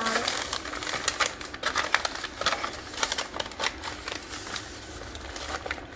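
Newspaper crinkling and rustling in irregular crackles as a bundle of spinach is wrapped in it by hand.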